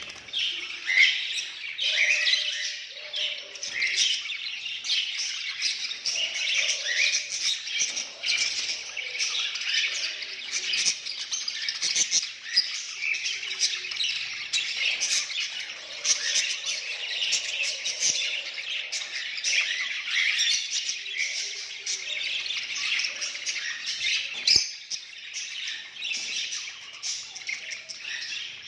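A flock of budgerigars chattering and chirping continuously, many warbling calls overlapping, with a few sharp clicks.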